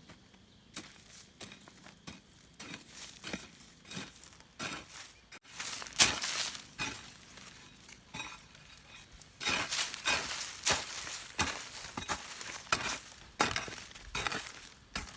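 Irregular sharp clinks and knocks of hard objects being handled, sparse at first with one loud knock about six seconds in, then coming thick and fast in the second half.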